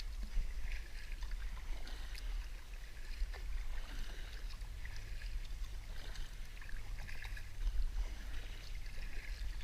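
Kayak paddle strokes splashing in shallow creek water, a stroke every second or two, over a steady low rumble.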